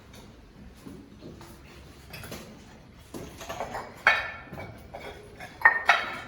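Hard objects clinking and knocking, a few sharp strikes with a short ring in the second half, after a quiet start.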